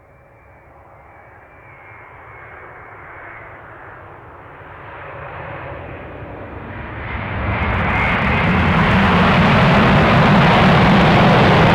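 Boeing 787-8 airliner's jet engines growing steadily louder over about eight seconds, with a faint high whine, then holding a loud, steady roar.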